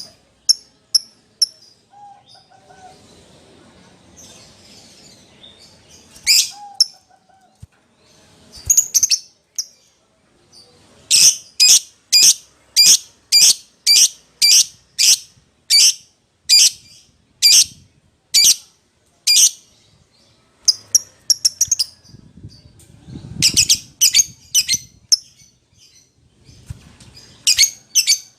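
Lovebird giving sharp, high-pitched chirping calls, calling out to a companion or rival. The calls come in clusters, with a long run of evenly spaced calls about two a second through the middle.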